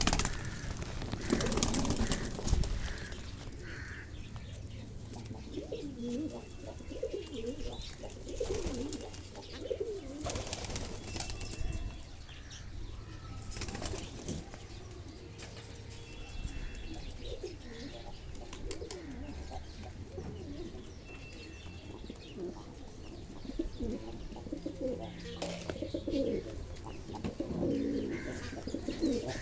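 A flock of fantail pigeons cooing, overlapping throughout, with bursts of wing flapping now and then.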